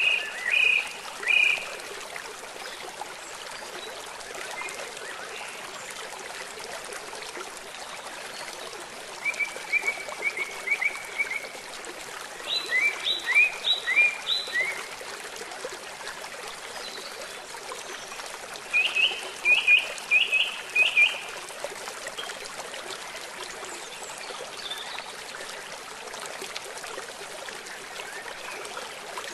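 Steady rush of flowing stream water, over which a bird calls in short bursts of four or five quick repeated chirps, four times.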